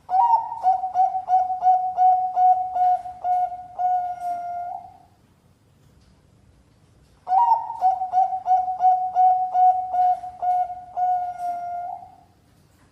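Bangkok-type perkutut (zebra dove) singing two song phrases. Each is a quick run of short coos, about two or three a second, closing on a longer held note. The second phrase starts about seven seconds in.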